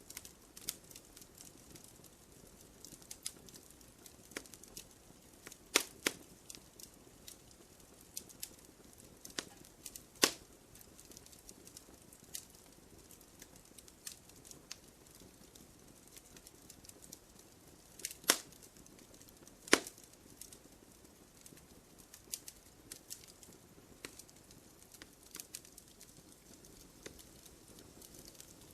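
Fireplace fire crackling: a steady scatter of small snaps over a faint hiss, with about five much louder pops, two close together around six seconds in, one near ten seconds, and two near eighteen and twenty seconds.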